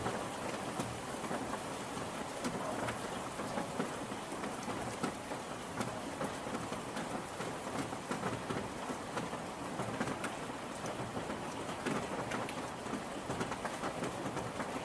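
Steady rain falling, with many individual drops ticking sharply on a hard surface over an even hiss.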